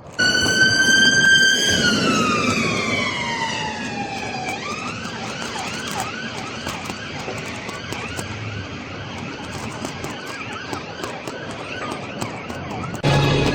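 Emergency vehicle siren, starting suddenly on a steady high note, then falling in pitch over about three seconds, then breaking into a fast run of short wavering chirps.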